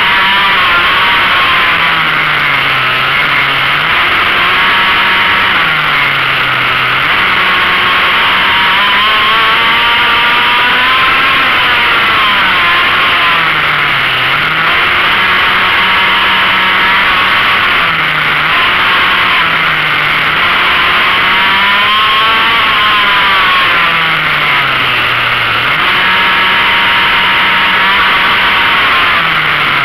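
Small motorcycle engine at racing revs, heard from on board, its note dropping and climbing again every few seconds as the bike slows for each corner and accelerates out, over steady wind noise.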